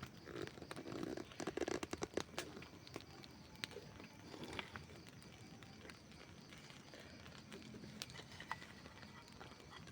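Campfire burning, wood crackling and popping: a quick run of pops in the first couple of seconds, then sparser single snaps over a low hiss of flame.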